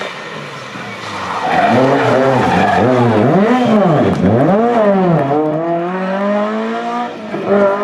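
A classic rally car's engine working through a tight hairpin: the revs rise and drop sharply several times in a row in the middle, then climb more steadily as it pulls away.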